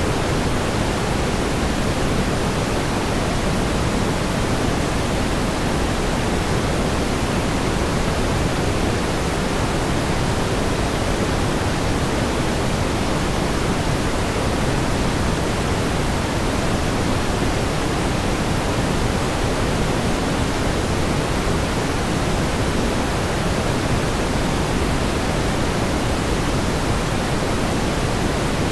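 Steady pink noise: an even, unchanging hiss, fuller in the low end than white noise.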